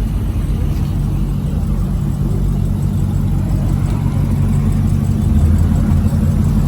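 A car engine running at low revs, a steady deep rumble that grows louder about five seconds in.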